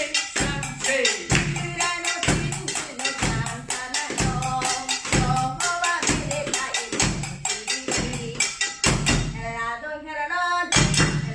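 Japanese percussion ensemble playing layered rhythms: a low drum beating about once a second under quicker, sharper strikes, with a voice singing along that is clearest near the end.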